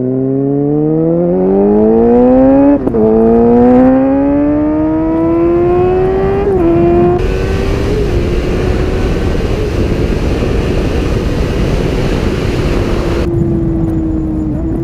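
Suzuki GSX-R 750 inline-four with a Yoshimura exhaust accelerating hard at full throttle: the engine note climbs steeply, drops with an upshift about three seconds in, climbs again and drops with another upshift about six and a half seconds in, then holds at a high steady pitch. A loud rushing hiss sits over the engine for about six seconds at speed.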